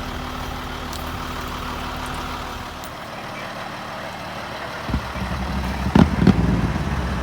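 Motor vehicle engine idling steadily. About five seconds in, a louder, deeper engine sound comes in, with two sharp knocks close together about a second later.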